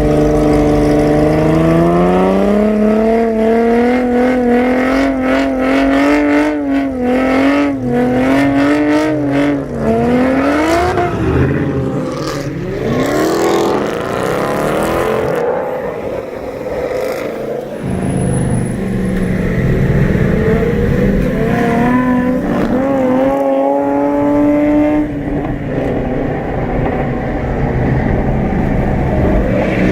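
Car engines revving hard, with one climbing in pitch and holding high revs, and cars accelerating and sweeping past with rising and falling engine notes.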